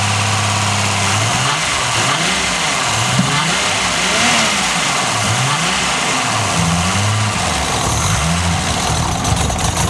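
Nissan RB30DET turbocharged straight-six running on its first startup after a build, its revs rising and falling several times with throttle blips between idle. The hydraulic lifters sound a little noisy.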